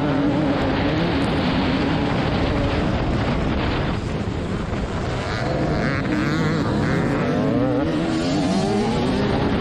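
Single-cylinder 300 cc two-stroke engine of a TM300es motocross bike being ridden hard, its pitch rising and falling repeatedly as the throttle is opened and shut.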